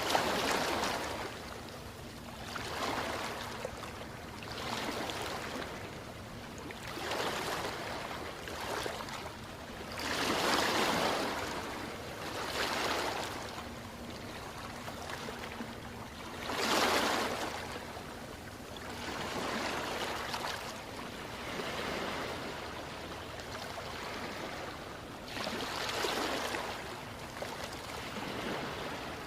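Ocean surf: waves breaking and washing in, one swell every couple of seconds. Bigger breakers come near the start, about ten seconds in, about seventeen seconds in and near the end.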